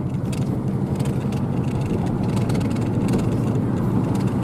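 Vehicle driving along a rough dirt road: a steady low engine and road drone with light rattles and clicks, slowly getting a little louder.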